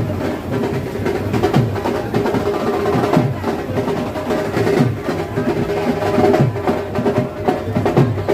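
Music carried by fast, dense drumming.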